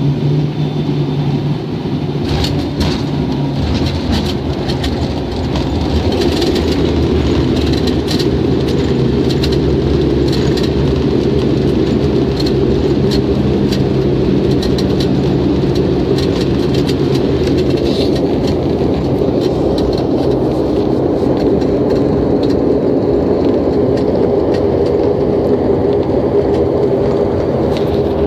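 Cabin noise of a Wings Air turboprop airliner landing, with the engines running steadily and the plane rumbling. Short rattles come through during the first half, and the noise grows louder about six seconds in.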